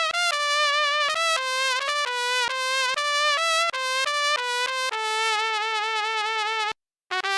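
Sampled trumpet from a brass SF2 soundfont playing a solo melody one note at a time with vibrato. A long held note breaks off into a brief silence near the end, and the next phrase starts right after.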